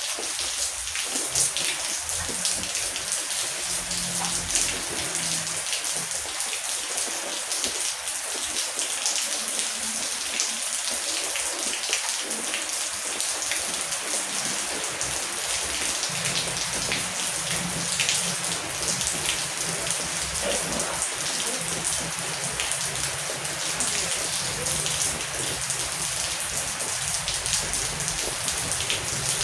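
Heavy rain falling steadily: a constant hiss with dense patter of individual drops hitting a surface.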